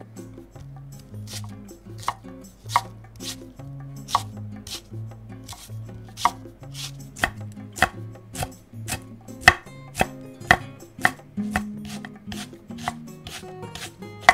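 Kitchen knife chopping on a cutting board in an unhurried, uneven rhythm of about two strokes a second, a few strokes landing harder in the second half.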